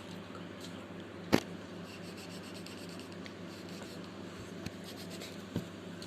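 Pencil scratching on paper while sketching, over a steady low hum. There is a sharp tap about a second and a half in and a softer one near the end.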